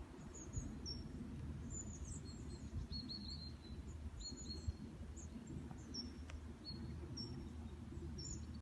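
Small songbirds chirping: short, high chirps repeated over and over, over a steady low rumble.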